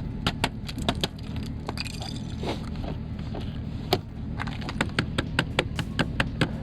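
Rapid sharp cracks and clicks of ice being chipped and broken off an ice-coated car, several a second, fewer in the middle, over a steady low hum.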